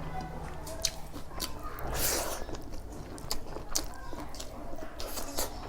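Close-up eating sounds: a person chewing, with irregular wet mouth clicks and smacks, and a brief louder noisy sound about two seconds in.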